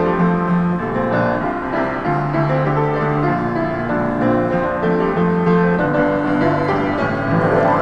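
Street piano being played: a busy run of melody notes over a low bass line.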